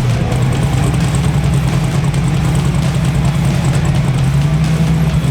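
Drag race car engine idling with a steady, loud, rough low rumble.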